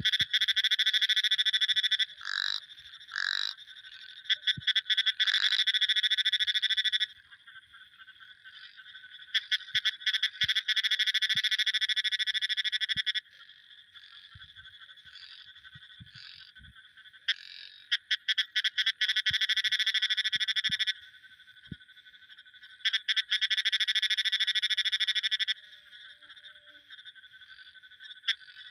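Frogs calling in bouts of rapid, high-pitched trilling a few seconds long, with short pauses between bouts and a faint steady background chorus underneath.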